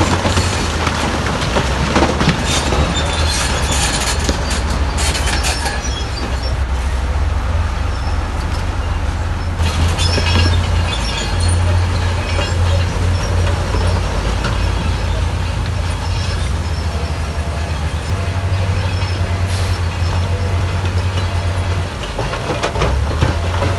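Bulldozer's diesel engine running hard with a deep steady rumble, its steel tracks clanking and rocks grinding, the clatter busiest in the first few seconds and again about ten seconds in.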